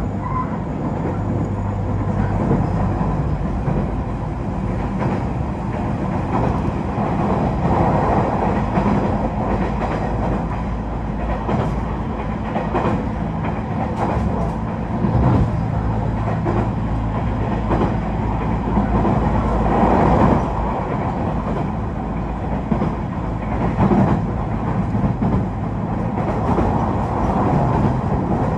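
A passenger train running at speed, heard from inside the car: a steady rumble and hum, with scattered knocks from the wheels and track.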